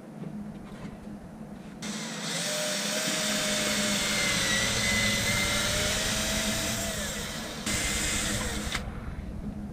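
Power drill running: one long run of about five seconds with a steady motor whine, then a short second run about a second long near the end, drilling or driving screws to fasten a cabinet.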